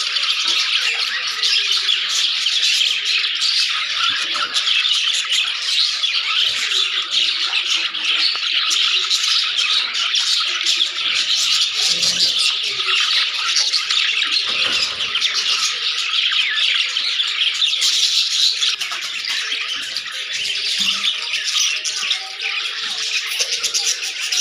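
A flock of budgerigars chattering, chirping and squawking without a break, with many birds calling over one another.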